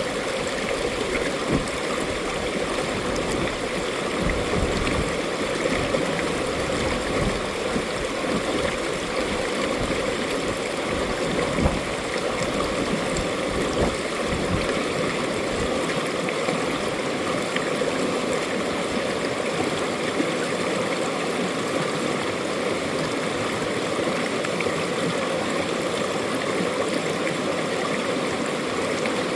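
A mountain stream running over rocks, a steady rush of water with gurgling and splashing.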